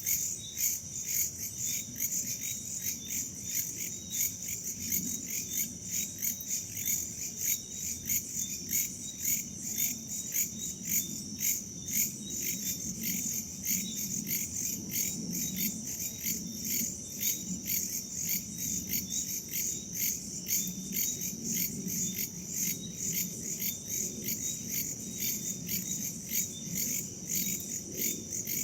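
Crickets and other insects chirping in a dense chorus: rapid, regular pulses over a steady high trill. A soft low rush, like wind, sits underneath.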